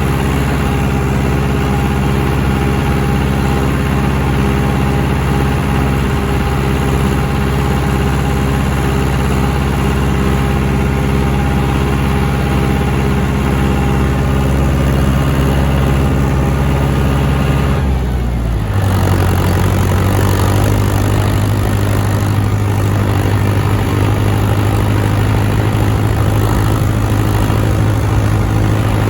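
John Deere 6420 tractor's diesel engine running steadily. About two-thirds of the way through, the engine note drops away sharply, then settles into a steady run again.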